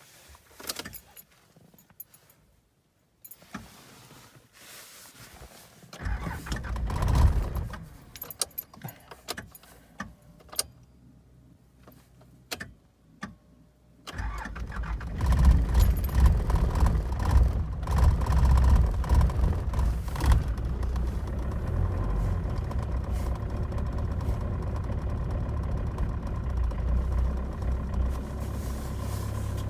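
Cold start of a 1991 Mitsubishi Pajero MK2's 2.5-litre turbodiesel four-cylinder at −6°C with one glow plug out. After a few clicks and a key jingle there is a short cranking attempt about six seconds in. The engine catches about fourteen seconds in, runs rough and uneven for several seconds, then settles to a steady idle.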